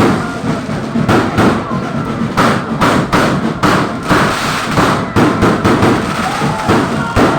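Fireworks going off in quick succession: an unbroken string of sharp bangs and crackles, several a second.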